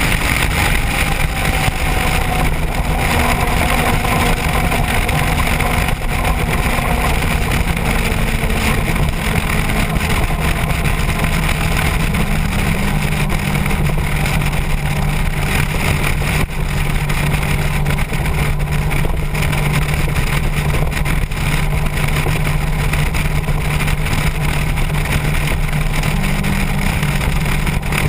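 Motorcycle engine running steadily at road speed under heavy wind rush on the microphone, its low drone shifting a little in pitch now and then.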